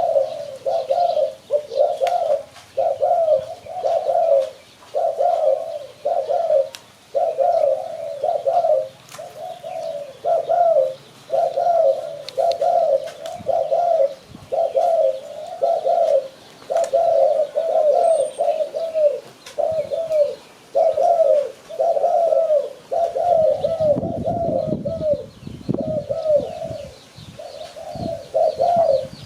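Spotted dove cooing, repeating its low phrase over and over with hardly a break. Faint high chirps from small birds sit behind it, and a low rumble joins about three-quarters of the way through.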